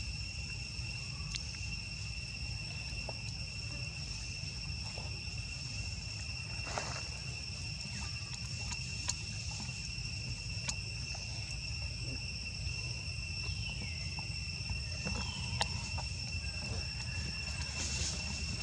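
Insects trilling in a steady high drone, over a low rumble, with scattered small clicks and a couple of brief chirps.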